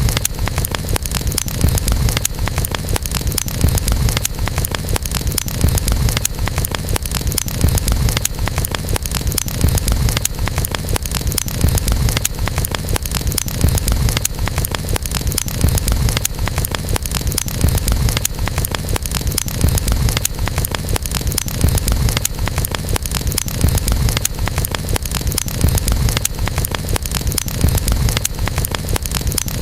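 Wood campfire crackling: dense, irregular pops and snaps over a steady low rumble of the burning fire.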